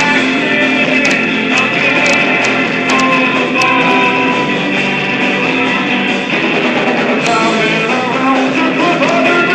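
Guitar playing an instrumental passage of a song.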